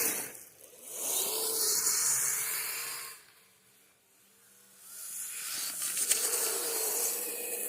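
Radio-controlled Kyosho Blizzard tracked snow vehicle driving on snow: a faint wavering motor whine under a hiss of the tracks churning snow, in two runs with a short near-silent pause about halfway through.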